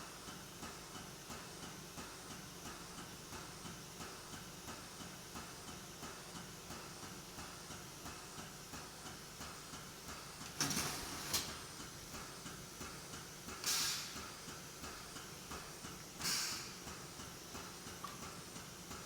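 Hydraulic testing machine running with a steady pulsing beat, about three a second. About halfway in it gives three short hisses a few seconds apart.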